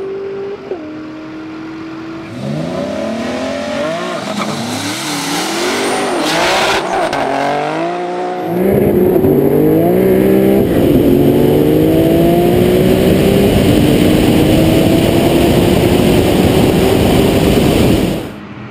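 High-horsepower car engines accelerating hard in a roll race, their pitch climbing and dropping at each gear shift. About halfway through they get louder, with a long rising pull at full throttle that cuts off suddenly near the end.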